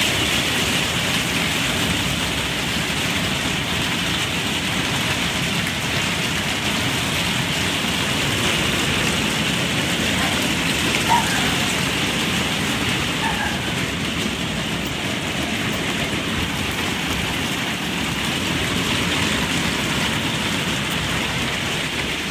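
Heavy rain mixed with hail falling hard, a steady dense patter with one brief louder hit about halfway through.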